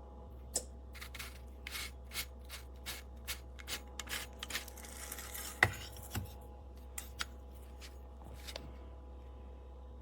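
Hand-twisted salt grinder turning, its ceramic mechanism crunching salt crystals in a run of short irregular clicks and scrapes, about two to three a second, with one louder click a little past halfway. A steady low hum runs underneath.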